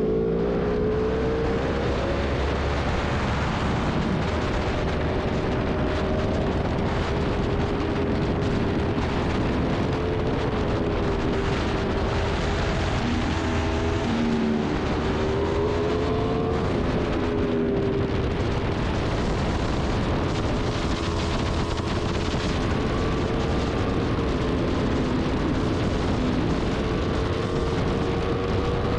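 Sport motorcycle engine running at speed under a loud, steady rushing noise, its pitch rising and falling as the revs change.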